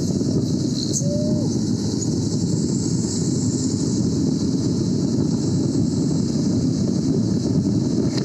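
Steady low rumble of a truck on the move: engine and road noise with no clear pitch or change throughout.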